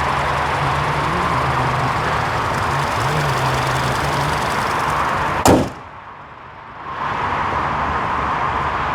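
The 2020 Hyundai Sonata's 1.6-litre turbocharged four-cylinder idling steadily, with a single loud slam a little past halfway. After the slam the engine sound drops away for about a second and a half, then comes back.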